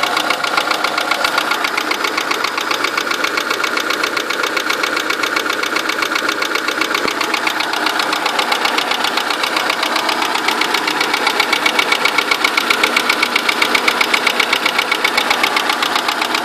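Renault Megane 2 engine running with a rapid, even knock that the owner calls unnatural, while the engine is not yet warmed up.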